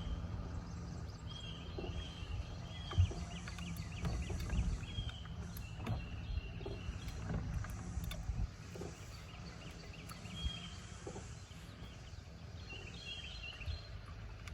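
Wind rumbling on the microphone with scattered low knocks and a faint steady hum underneath, while a small bird chirps in short repeated calls throughout.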